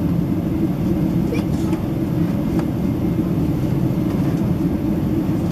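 Steady in-flight cabin noise of a Boeing 767-300ER: a constant low rumble of engines and airflow, with a couple of faint clicks from the cabin.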